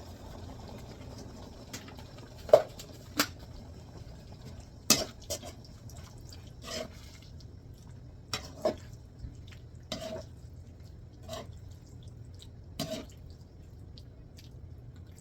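A pan of cheesy pasta sauce bubbling, giving about ten irregular drip-like plops with a short ringing note, over a steady low hum.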